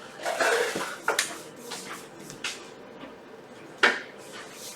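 Rustling followed by a few sharp clicks and knocks, the loudest nearly four seconds in.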